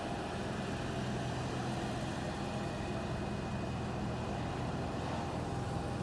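An engine idling steadily, a constant hum with a few held low tones.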